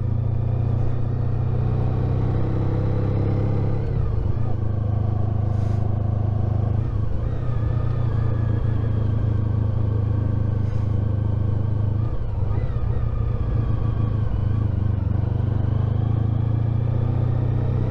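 Honda ST1300 Pan European's V4 engine running steadily under the rider, a constant low hum whose pitch drifts slightly up and down.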